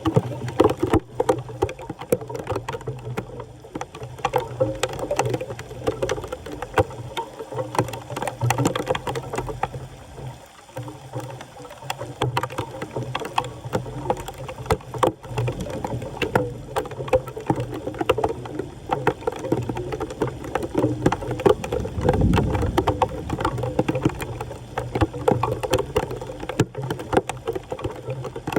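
Floodwater splashing and churning around a blocked storm drain, with many sharp clicks and knocks.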